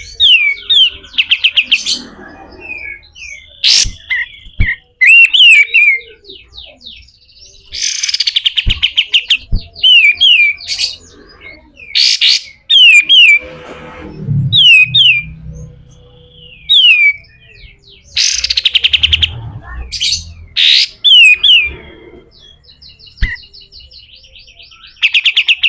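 A kapas tembak singing a fast, harsh 'besetan' song: runs of quick falling whistled notes broken by loud rasping rattles, phrase after phrase.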